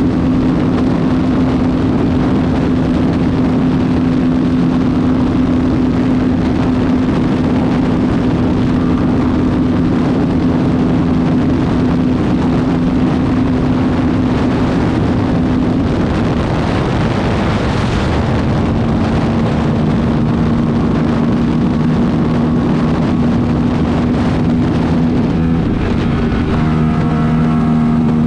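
Aprilia RS457's parallel-twin engine running at steady high revs while riding, over rushing wind noise. A little past halfway the engine note breaks off and comes back slightly lower, with a short swell of rushing noise.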